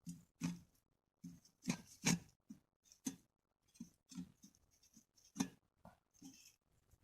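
About a dozen faint, irregularly spaced knocks and clicks, each a short sharp tap with a dull low thump beneath it.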